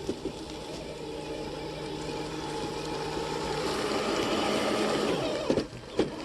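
Electric motor and gearbox of a radio-controlled scale truck whining steadily, growing louder over about five seconds and then dropping off, with a couple of sharp knocks near the end.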